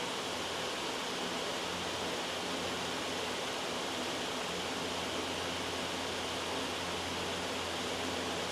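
Steady, loud white noise: an even, unchanging hiss.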